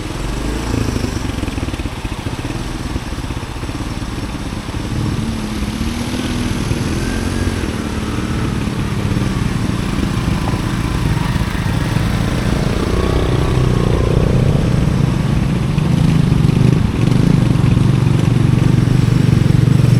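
Honda CT110 postie bike's small single-cylinder four-stroke engine running under way, its pitch rising and falling with the throttle and growing louder and steadier toward the end.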